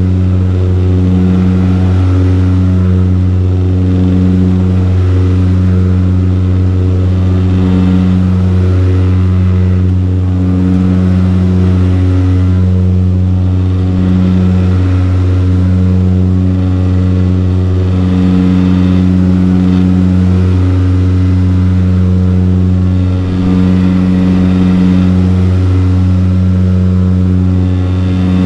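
Saab 340B turboprop engine and propeller heard from a cabin seat right beside the propeller in flight: a loud, steady low drone, with a higher tone above it throbbing in a slow beat about every two seconds.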